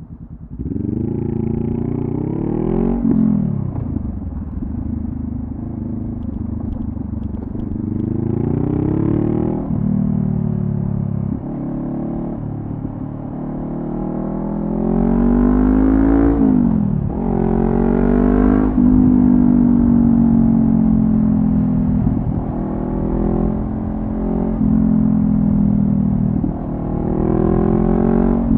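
Honda CB500F's 471 cc parallel-twin engine through a Delkevic carbon-fibre slip-on exhaust, pulling up through the gears: the revs climb and fall back sharply at each of four shifts, then settle into steadier cruising with small rises and dips.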